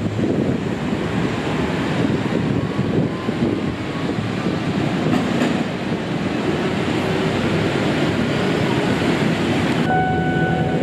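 Train running on the rails: a loud, steady noise, heaviest in the low range. About ten seconds in, a steady pitched tone comes in.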